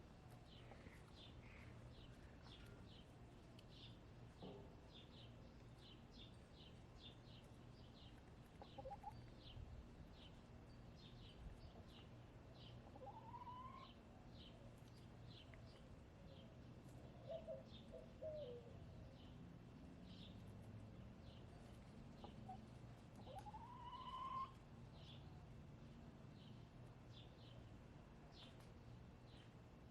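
Backyard hens calling softly now and then, with a few short rising calls and a brief warble, over a wild bird chirping steadily about twice a second. A faint low hum runs underneath.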